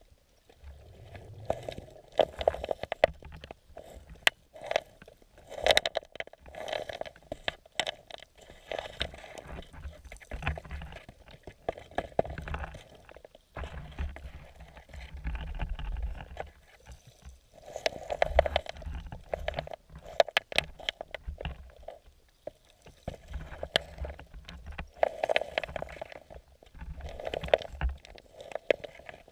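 Muffled underwater noise heard through a camera housing: water gurgling and sloshing in irregular surges, with scattered clicks and scrapes.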